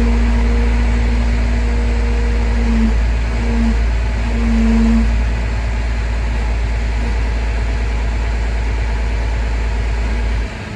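Heavy vehicle engine running steadily with a deep hum and a tone that holds, breaks off and comes back a few times in the first half. The level drops suddenly just before the end.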